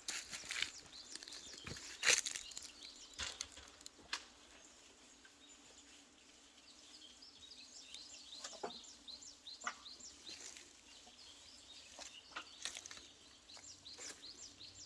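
Small birds chirping in quick repeated short notes, thickest in the second half, over scattered rustles and sharp clicks, the loudest of which comes about two seconds in.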